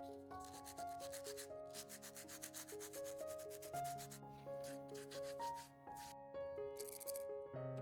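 Sandpaper rubbed quickly back and forth in rapid, even strokes, in two long runs with a short break just under four seconds in, over soft piano music.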